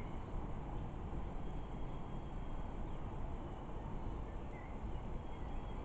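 Steady low background rumble with a few faint, short bird chirps.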